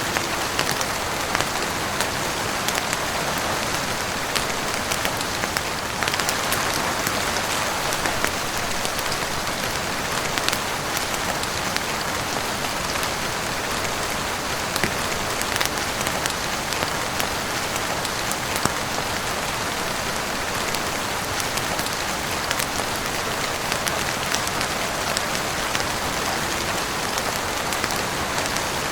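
Heavy rain falling steadily on a roof, an even hiss with many sharp drop ticks scattered through it, growing a little louder about six seconds in.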